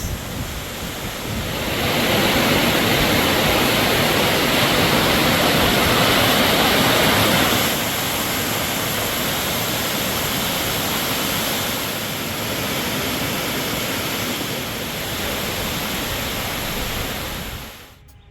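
Steady rushing of falling water from a waterfall, swelling about two seconds in and fading out just before the end.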